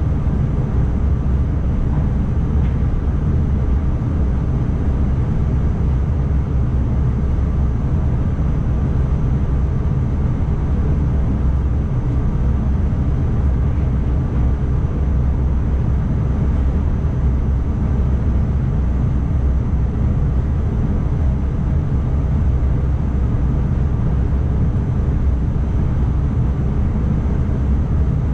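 Steady low rumble of an NS ICMm electric multiple unit running along the line, heard from inside the driver's cab. Wheels on rail and running gear make a constant drone, with a faint thin high tone over it.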